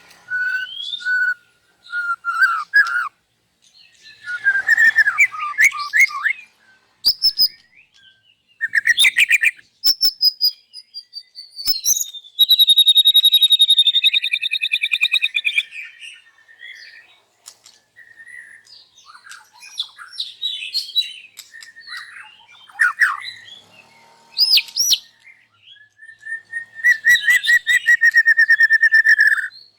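White-rumped shama singing loudly in a varied string of phrases: clear whistles, rapid trills and a buzzy rattle, broken by short pauses. The song is full of the mimicked phrases (isian) that the bird has learned.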